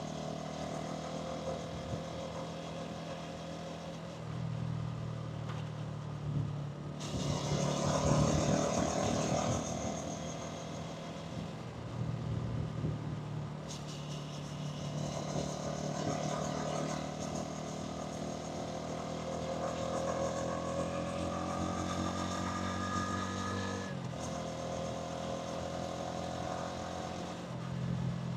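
Hansom Bike Venett 125cc engine and exhaust running under way, with wind and road noise. The engine note rises steadily for a few seconds past the middle, then falls abruptly about 24 seconds in, as with easing off the throttle; a louder, noisier stretch comes about a quarter of the way through.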